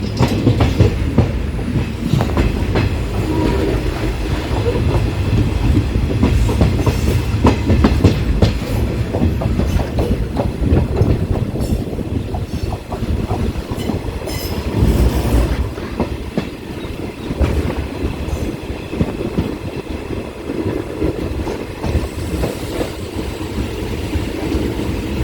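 Passenger train running on the rails, heard from on board: a steady rumble with frequent wheel clicks over the rail joints.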